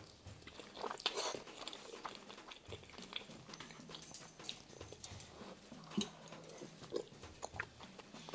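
Close-miked chewing of a mouthful of soft rice, fried egg and pork kimchi stew, with scattered wet smacks and clicks of the mouth. The sounds are loudest about a second in.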